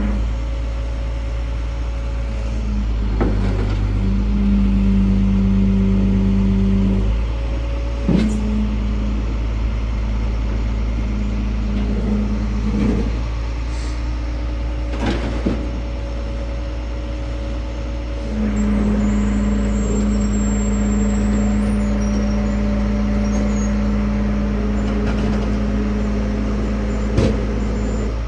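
Heavy truck engine running steadily with a low rumble and a hum that swells for a few seconds and again from about eighteen seconds in, with a few sharp metal clanks.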